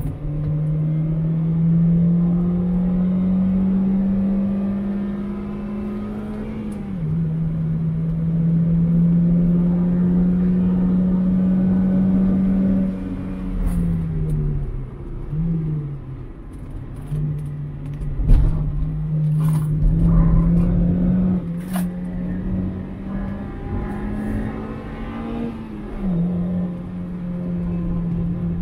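2001 Mazda MX-5's 1.8 four-cylinder engine driven hard on track: its note climbs under full throttle and drops sharply with upshifts about seven seconds in and near the end. In between it falls away and wavers as the car slows, then climbs again, with a loud thump about eighteen seconds in.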